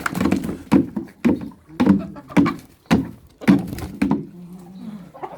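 A run of dull knocks, about two a second, with a low hum between them.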